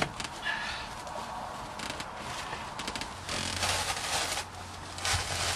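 Rustling and scraping of car floor carpet and jute padding being lifted and handled. There is a sharp click at the start, and two louder bursts of rustling come in the second half.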